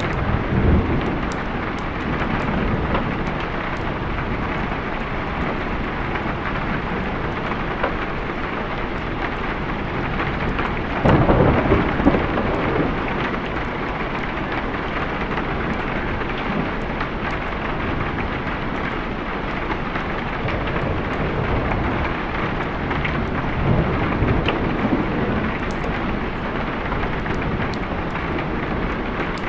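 Steady rain with thunder rumbling: a short rumble about a second in, the loudest and longest rumble near the middle, and another about two-thirds of the way through.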